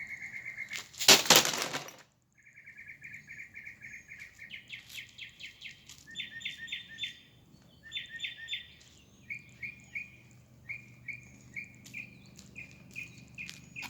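A wild songbird singing in phrases of rapid, repeated chirps. About a second in there is one loud, brief noise, followed by a moment of silence.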